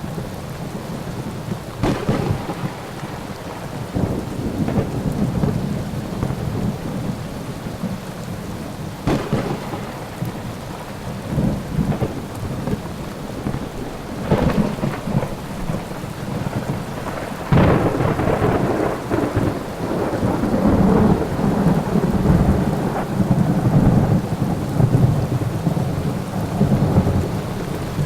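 Thunderstorm: steady rain under rolling thunder, with four sharp cracks spread through. The loudest crack comes about two-thirds of the way in and is followed by long, low rumbling.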